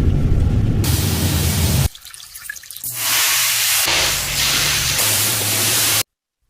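Pressure washer spraying water in a loud, steady hiss, in several short shots joined by abrupt cuts, with a quieter second and a half near the start of the middle and a sudden cut to silence near the end.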